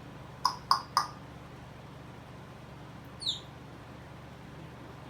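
African grey parrot making three quick high squeaky chirps about half a second in, then a single short high whistle that falls in pitch a little after three seconds in.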